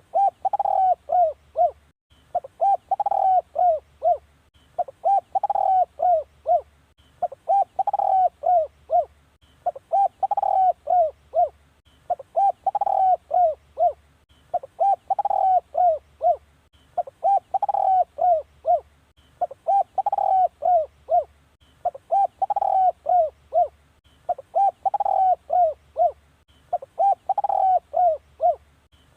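Spotted dove cooing: a phrase of about five coos repeated steadily about every two and a half seconds, the dove song used to call in wild doves.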